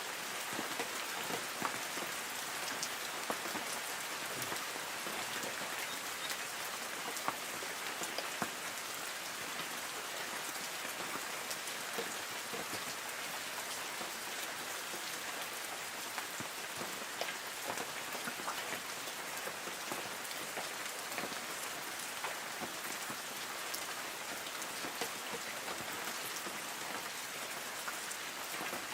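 Light rain falling steadily on forest trees: an even hiss with many separate drops pattering on leaves.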